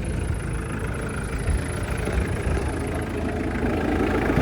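1986 Mitsubishi Pajero's four-cylinder turbo diesel engine idling steadily with a low, even rumble.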